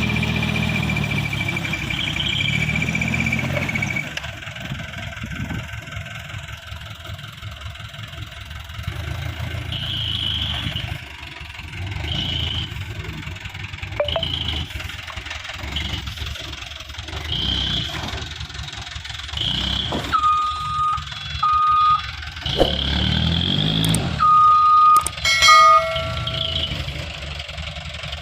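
Hino Dutro dump truck's diesel engine running, heavier for the first few seconds and then settling lower, with short high beeps repeating about every two seconds through the second half.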